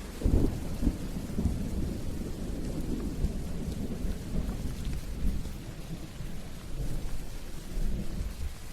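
Steady rain hissing, with a low rolling rumble of thunder that swells sharply just after the start and keeps rumbling unevenly through the downpour.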